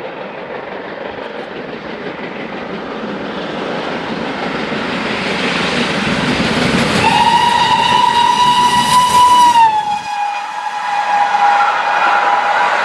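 A train approaching and passing, its running noise building steadily. About seven seconds in it sounds one long whistle, whose pitch drops as the train goes by.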